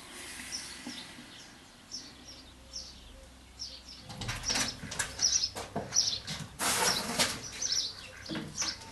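Small birds chirping over and over in short, high calls, with bursts of broad rustling noise on the microphone from about halfway in.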